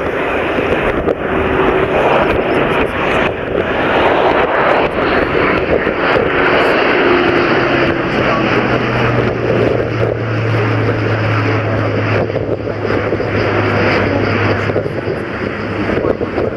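Airbus A400M's four turboprop engines and eight-bladed propellers running at display power as the airlifter flies past, a dense, loud noise with a steady low hum joining about halfway through.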